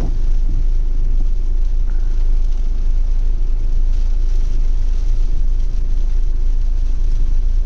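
Heavy rain and wind: a steady low rumble under a constant even hiss.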